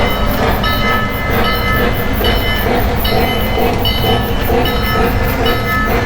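Lionel O gauge model locomotive backing up, its sound system ringing the bell about every three-quarters of a second over the steady rumble of the motor and wheels on the track.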